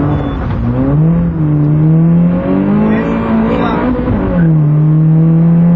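Citroen C2 rally car's four-cylinder engine heard from inside the cabin under hard driving. The engine note dips and climbs again near the start, rises steadily for a few seconds, then drops sharply about four seconds in and holds, like gear changes.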